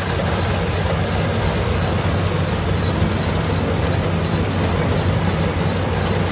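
LOVOL AF88 combine harvester running steadily while harvesting rice: a low, even diesel engine drone with a broad mechanical whir over it.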